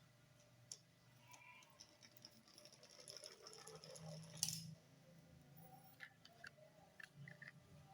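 Faint handling sounds of small toy model cars: light clicks, taps and rustling, with one sharper click about four and a half seconds in and a few small clicks near the end.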